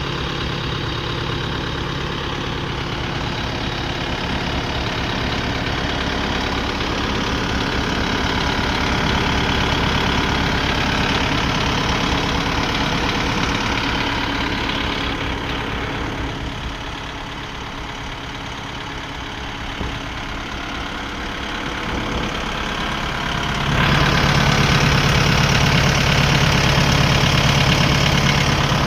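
Kubota 5502 tractor's diesel engine running steadily with a throbbing low pulse. It fades a little past the middle, then becomes suddenly louder about 24 seconds in.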